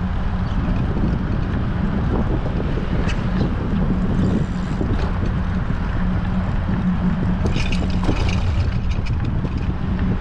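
Strong wind buffeting a camera microphone on a moving bicycle: a steady, loud low rumble. A short run of faint high ticks comes about seven and a half seconds in.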